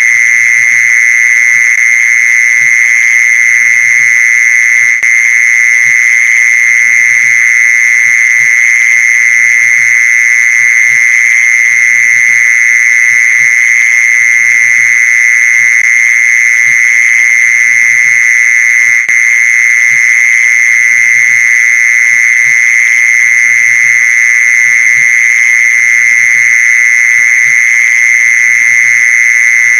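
Mole cricket song used as a lure: one continuous, unbroken trill pitched near 2 kHz, holding a steady level throughout.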